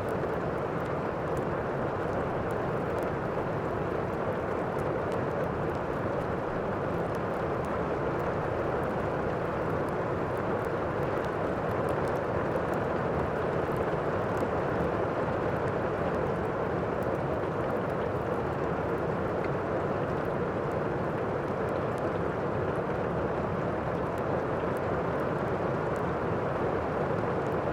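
Steady rain from a thunderstorm ambience track, an even hiss with faint scattered crackles of a fireplace fire over it.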